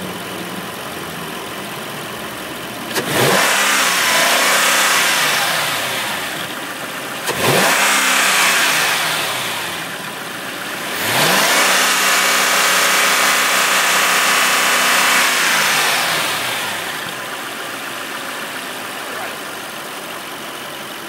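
2003 Mercedes-Benz SL55 AMG's supercharged V8 idling, then revved three times: two short revs about three and seven seconds in, and a longer rev held for about five seconds before it settles back to idle. It runs clean, with no odd noises.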